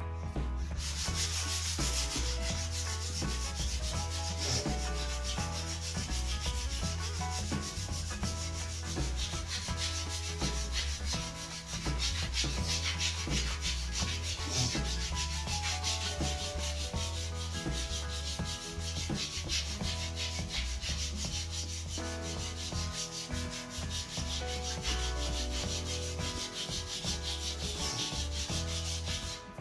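Sandpaper rubbing steadily along a new wooden snooker cue shaft.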